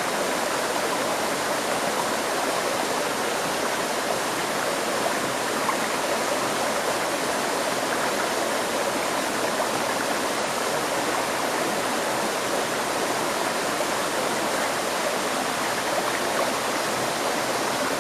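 River stream flowing over rocks: a steady, even rush of water that holds level throughout.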